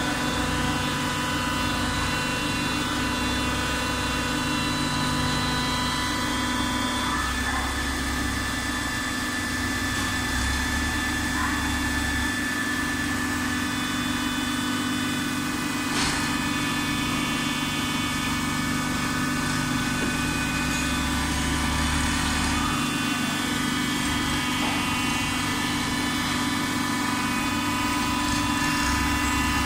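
Automatic waste-paper baler running: a steady machine hum with several constant tones, and a deeper rumble that comes and goes every few seconds as the machine works. There is a single sharp click about midway.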